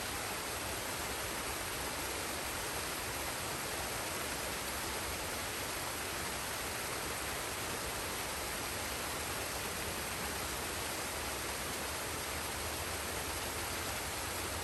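Forest waterfall and stream: steady rushing of falling water.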